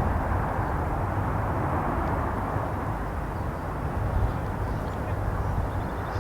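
Strong wind blowing across an outdoor microphone: a steady rushing noise with a heavy low buffeting rumble.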